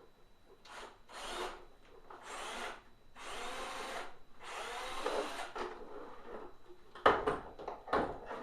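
Tools working on the plastic housing of a Hoover SteamVac carpet cleaner during disassembly: four rasping, scraping passes, then two sharp knocks near the end.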